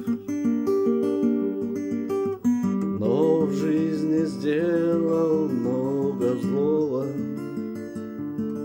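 Acoustic guitar accompaniment playing chords of a Russian chanson song, with a voice holding a long, wavering sung line from about three seconds in to seven.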